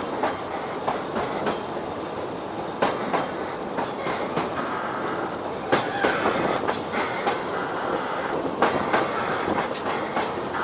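Passenger train of the Ōigawa Railway Ikawa Line running on the track: a steady rumble with irregular clacks and knocks from the wheels and cars, and a faint brief wheel squeal about six seconds in.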